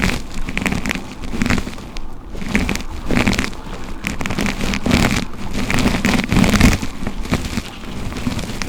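Brush strokes drawn through hair close to the microphone: a repeated rustling swish, roughly one stroke a second.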